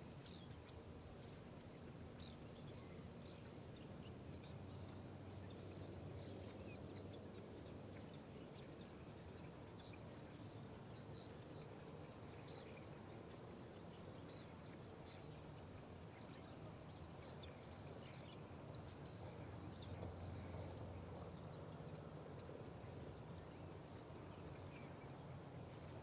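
Faint outdoor ambience: a steady low rumble with many short, faint high bird chirps scattered through, mostly in the first half.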